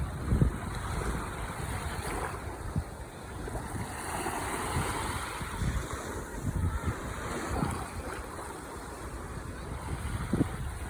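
Ocean waves washing in continuously, swelling about four to five seconds in. Wind buffets the microphone in low rumbles, hardest about half a second in and near the end.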